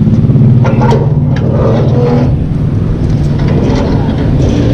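Small two-stroke gas stand-up scooter engine running steadily with a fast, buzzy pulse, easing off slightly after about two seconds.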